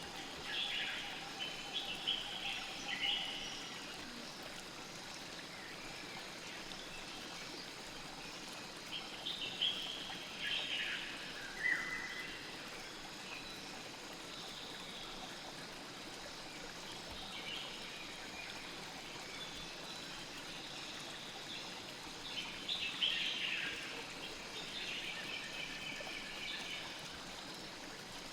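Steady flowing river, with birds chirping in short bursts several times over the water.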